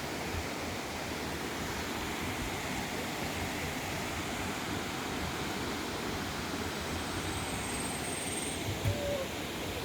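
Steady rushing outdoor noise with low rumbling and no clear rhythm, and a brief low thump about nine seconds in.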